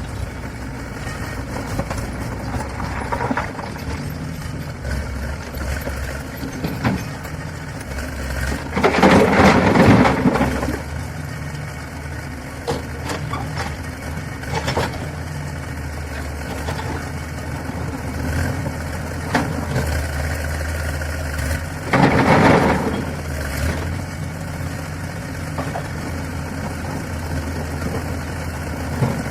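Diesel engine of heavy construction machinery running steadily at a low, even drone, with two loud noisy surges of a second or two each, one about a third of the way through and another about three-quarters of the way through.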